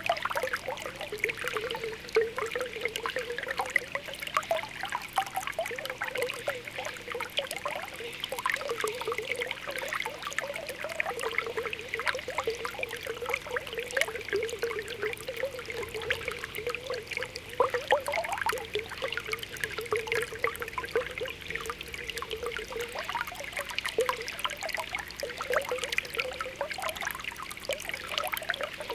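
Spring water welling up from the ground, bubbling steadily with a continuous patter of small pops and gurgles; now and then a bubble pops with a rising pitch.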